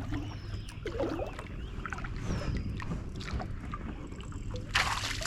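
Kayak hull and fishing-gear handling sounds on the water, with small knocks and rustles over a steady low rumble, while a bass is brought in; a short rush of noise comes near the end.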